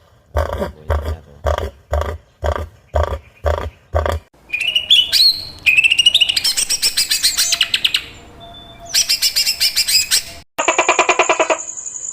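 A sequence of bird calls: a repeated pulsed call about twice a second, then rising chirps and rapid trills. The calls change abruptly between a few distinct kinds.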